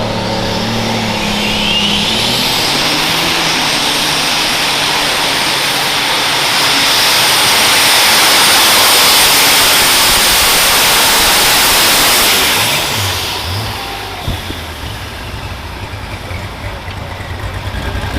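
Unlimited super stock pulling tractor running at full power on a pull. Its loud engine noise, with a thin high whine on top, builds over several seconds. The noise drops away sharply about thirteen seconds in, and the engine runs on more quietly after that.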